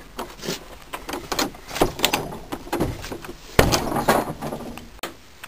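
Scattered clicks, rattles and knocks of things being handled, with one louder knock about three and a half seconds in.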